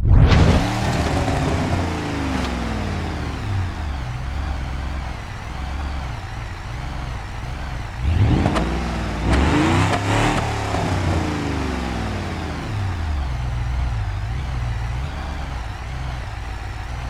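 Drag car engine noise starting abruptly and loud, its pitch sweeping up and down over a continuous low rumble. It swells again about eight seconds in.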